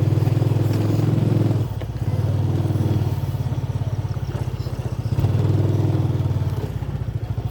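A motorcycle engine running at low speed, growing louder twice.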